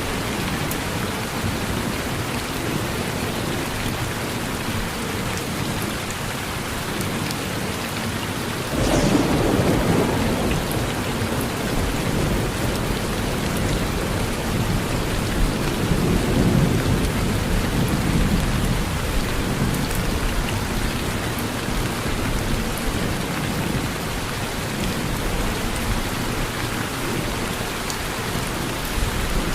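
Steady rain falling, with thunder: a sudden crack and rumble about nine seconds in, then a longer low rumble rolling on a few seconds later.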